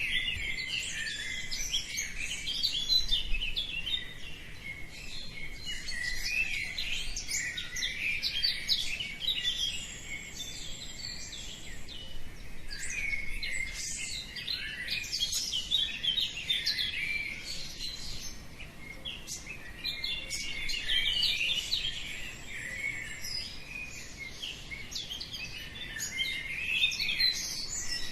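Many songbirds chirping and singing at once in a dense, unbroken dawn chorus of short high chirps and trills.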